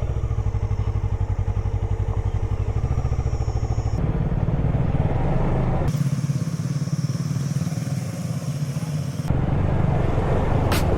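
Kawasaki Ninja 650 parallel-twin engine running while riding, in several clips cut together: the sound changes abruptly about four, six and nine seconds in.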